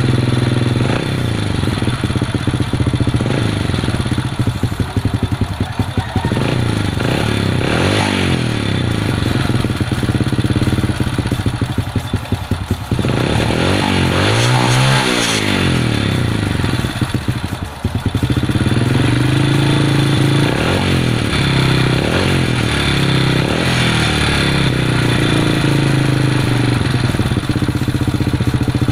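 Honda Supra motorcycle's single-cylinder four-stroke engine running while its carburettor is being set, the revs dropping and rising again several times, most deeply about halfway through.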